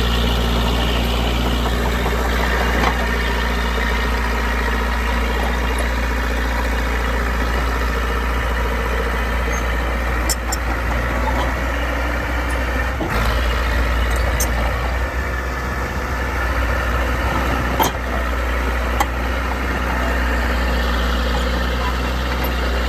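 Dresser bulldozer's diesel engine running steadily at a constant speed, with a few short clicks over it.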